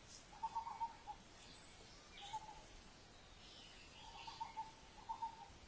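Wild birds calling faintly: a low, warbling call repeated four times, with a few thin high chirps in between.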